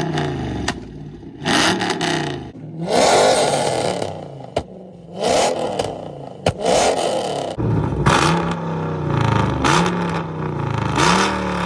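Straight-piped, catless V8 exhaust revving again and again, each rev climbing and dropping back, with a few sharp cracks between the revs.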